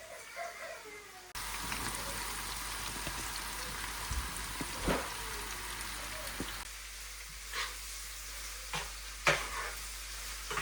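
Food frying in a pan, a steady sizzle that starts suddenly a little over a second in, with a few sharp clinks of a utensil against the pan.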